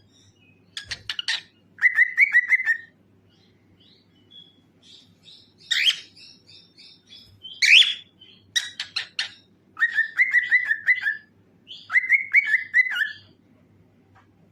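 Cockatiel singing and chattering: bursts of short chirps and three quick warbled phrases of rapidly repeated notes, with two louder calls about six and eight seconds in.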